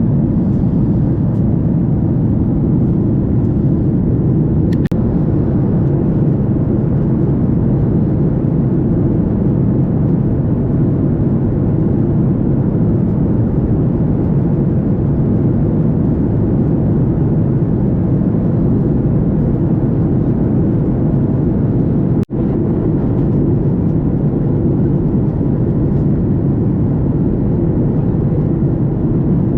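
Steady cabin noise of a Boeing 737 MAX 8 in flight: an even low rumble of engine and airflow. It drops out for a moment about 22 seconds in.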